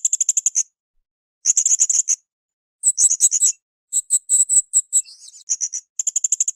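Blue-crowned hanging parrot (srindit) singing: short bursts of rapid, very high-pitched chattering notes, about a dozen notes a second, each burst under a second long and repeated about five times with brief gaps.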